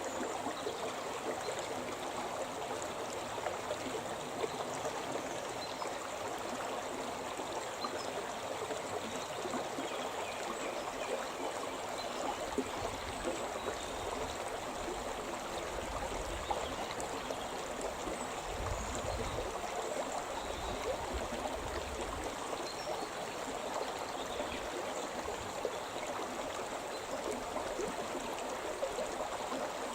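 The Shimna River, a rocky upland stream, running and splashing steadily over stones, a continuous rush of water with fine trickling detail.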